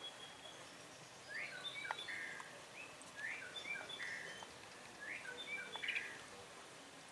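A songbird singing the same short chirping phrase over and over, about every one and a half to two seconds, against faint outdoor background noise.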